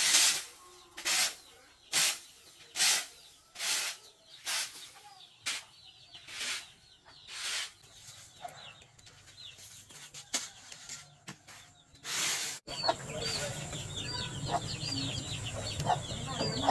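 About a dozen rhythmic swishing strokes, roughly one a second, from rice stalks being worked by hand during the harvest. After an abrupt change near the end, chickens chirp over a steady low hum.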